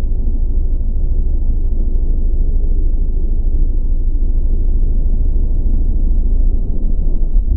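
Steady low rumble of riding on a Honda CBR600RR, heard through a helmet-mounted camera: wind on the microphone with the motorcycle running underneath.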